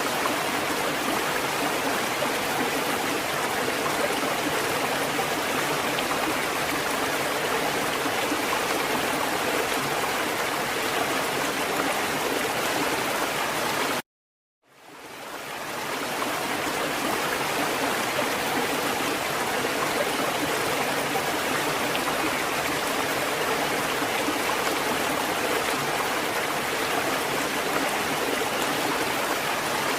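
Water fountain running, a steady rush of flowing and splashing water. About halfway through it cuts out completely for under a second, then fades back in over about a second, as at a loop or edit point.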